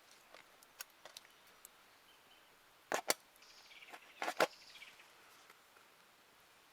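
Scattered sharp clicks or knocks: two close together about three seconds in and a short cluster just after four, with a faint high wavering sound between them.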